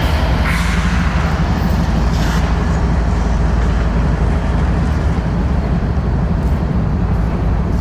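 Train running past with a steady, loud low rumble.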